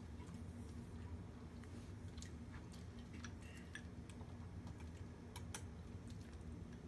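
Scattered light clicks and taps of utensils against bowls and plates while people eat, over a steady low hum.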